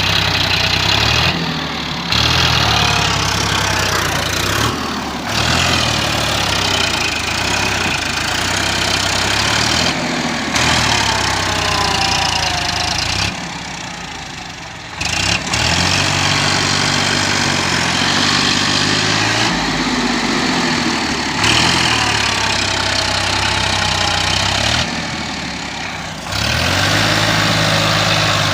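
Sonalika tractor's diesel engine running, its pitch shifting with the throttle. The sound changes abruptly every few seconds, as a string of short cuts.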